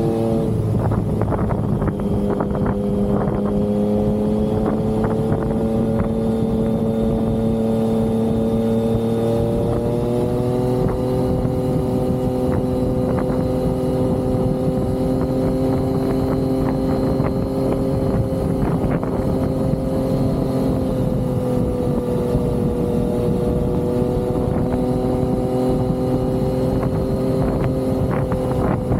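Yamaha XSR900 inline-triple engine pulling a steady cruise, its pitch holding nearly level with a small rise about a third of the way in and a slight drop later on.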